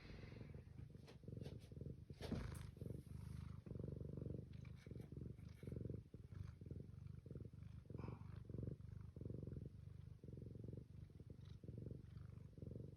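Domestic cat purring close to the microphone: a low, steady purr that swells and fades in an even rhythm with its breathing. A brief scratchy click sounds about two seconds in.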